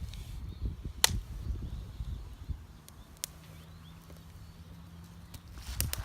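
Handling noise with a low rumble, broken by a sharp click about a second in and a fainter one near three seconds, then a quieter stretch with a faint low hum.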